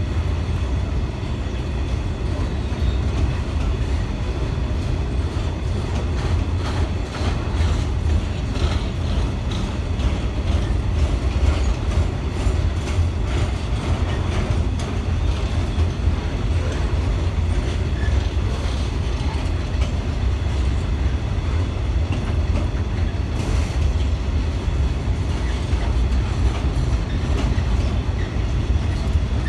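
Container freight train's loaded flat wagons rolling slowly past: a steady low rumble with frequent irregular clicks and knocks from the wheels and running gear.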